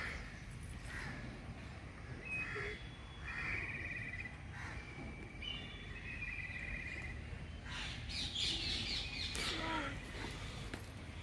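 Birds calling: short chattering calls with a fast trill, repeated several times, then a busier burst of calls a little past the middle, over steady low background noise.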